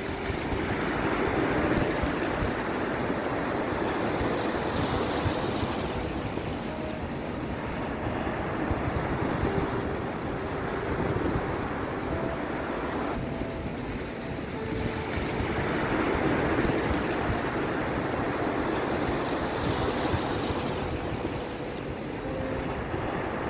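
Wind buffeting the microphone over the rush of surf, the noise swelling and easing every few seconds.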